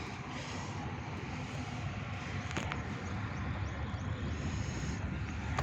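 Steady rumble of vehicle traffic on a highway, slowly building, with a brief click about two and a half seconds in.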